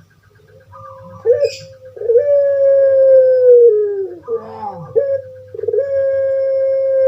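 Puter pelung (Barbary dove, Streptopelia risoria) calling twice. Each call is a short note followed by a long drawn-out coo, held about two seconds and falling in pitch at the end.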